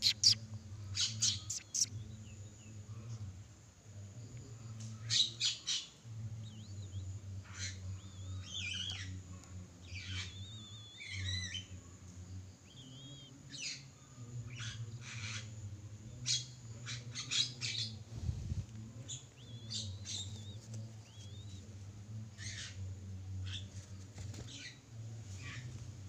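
Scattered short bird chirps and squeaks, some in quick clusters, over a steady low hum.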